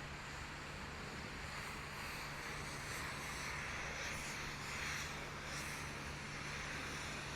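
Steady outdoor street ambience: a continuous haze of distant traffic noise that swells slightly around the middle.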